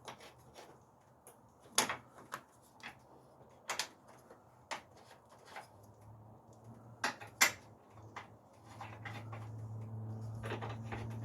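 Hand tools and metal parts clinking as a new engine mount is fitted: about eight sharp clinks spread out over several seconds. A steady low hum starts about six seconds in and grows louder towards the end.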